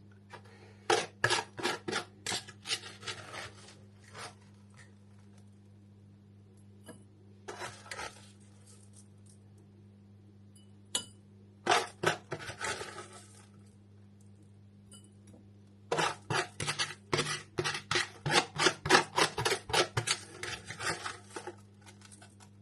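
Raw sugar being scooped into a dry cup, heard as several runs of short scraping and clinking strokes, about four or five a second, with pauses between runs. A steady low hum runs underneath.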